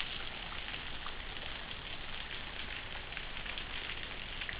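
Water trickling and splattering down a small waterfall into a shallow pool: a steady hiss with faint drips and ticks.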